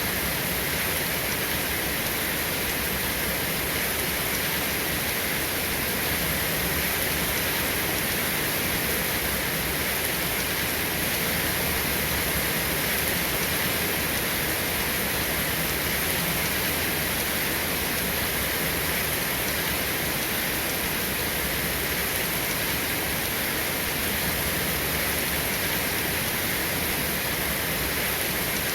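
Steady rain falling, an even hiss with no changes and no thunder.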